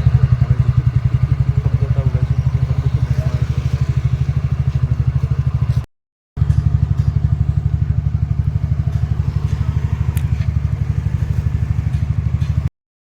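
TVS Ntorq scooter's single-cylinder engine running with a steady, even beat, its timing chain newly replaced to cure a 'kit kit' noise. The sound breaks off for a moment about six seconds in, then resumes.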